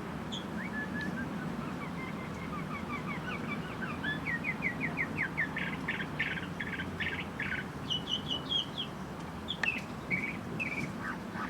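Bird song: phrases of quick, short chirping notes repeated in runs, some stepping down and some rising, with the loudest run about halfway through. A steady low rumble lies underneath.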